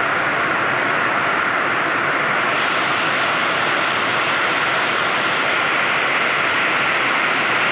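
Heavy rain falling, a steady rushing hiss, turning brighter and hissier for about three seconds in the middle.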